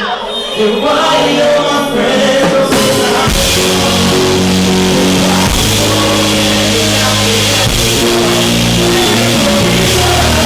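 Live band music with a singer: a sung line for the first couple of seconds, then the full band with bass and drums comes in about three seconds in and plays on. The recording is harsh and overloaded, from a microphone blown out by the club's sound system.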